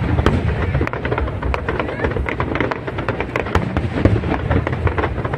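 Aerial fireworks display going off continuously: a dense run of crackling bursts and sharp bangs, several a second, over a low rumble.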